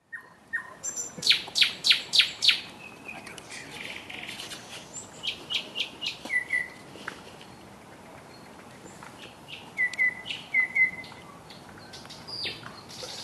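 Songbirds chirping and trilling: quick, sharp high chirps and short whistled notes. A run of five loud chirps comes about a second in, with further clusters of chirps and paired whistles through the rest.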